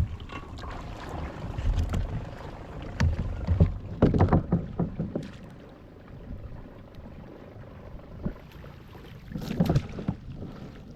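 Irregular knocks and clatter in a small fishing boat, bunched about three to five seconds in and again near the end, over low wind rumble on the microphone.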